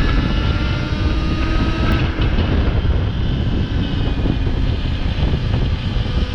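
Heavy wind noise on the microphone as a Sur-Ron Ultra Bee electric dirt bike rides fast along a road, with the electric motor's faint whine slowly rising in pitch.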